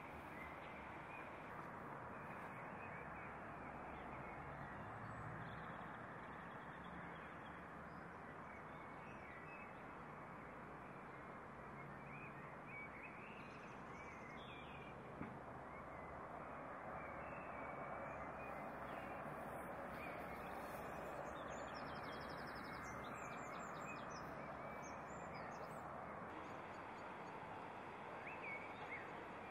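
Quiet canalside outdoor ambience: a steady hiss of background noise with faint bird calls scattered through it and a short run of quick, high chirps about two-thirds of the way in.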